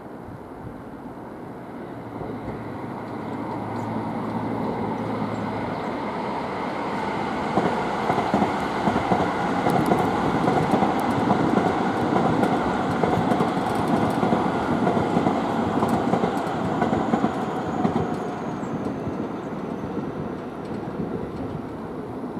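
Electric commuter train running past on the tracks. It grows louder over several seconds, then its wheels clack over rail joints and points for about ten seconds in the middle before it fades.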